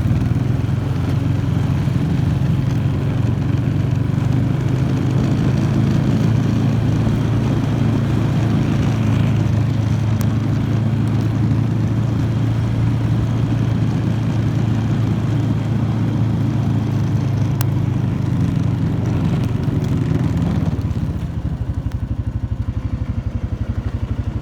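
Honda Foreman 500 ATV's single-cylinder engine running steadily while the quad is under way, easing off to a lower, slower putter near the end.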